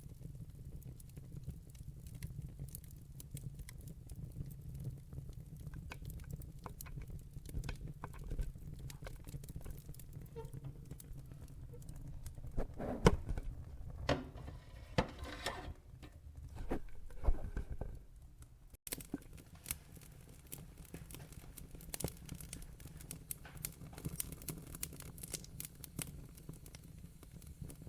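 Wood fire in a fireplace crackling, with irregular sharp pops and clicks over a steady low rumble of flame. A run of louder pops comes a little before the middle, and the sound dips out for an instant after it.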